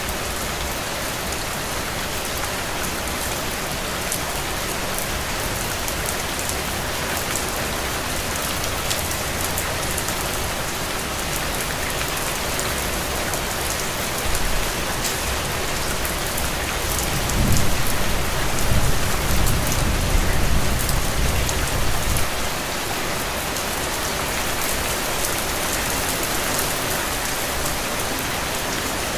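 Heavy, steady rain falling on open ground and puddles, a dense even hiss of countless drop impacts. A low rumble swells for a few seconds past the middle.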